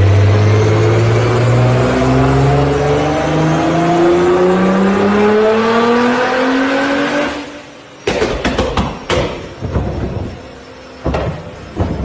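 A car engine accelerating hard, its pitch climbing steadily for about seven seconds before fading. From about eight seconds in, a run of sharp pops and bangs with the engine running between them.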